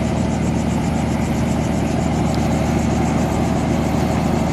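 Steady, loud engine drone with a fast, even pulsing, holding constant without rising or falling.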